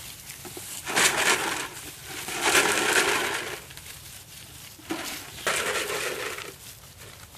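A plastic milk jug with beans inside being crunched and shaken in three bursts about a second long, the plastic crackling and the beans rattling as puppies chew and toss it.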